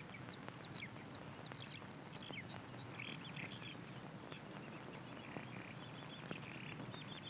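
Small birds chirping faintly, many short high calls one after another, over a steady background hiss.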